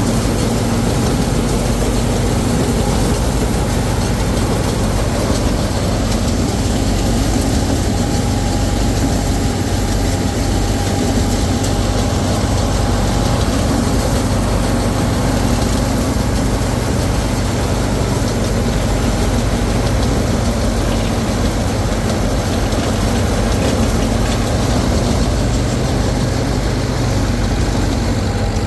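Combine harvester's diesel engine running steadily, a constant low hum with a faint higher whine.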